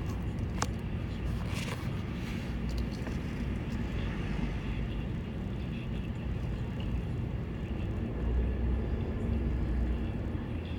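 Vehicle driving: a steady engine drone with road rumble, swelling somewhat about eight seconds in, and a few light clicks in the first two seconds.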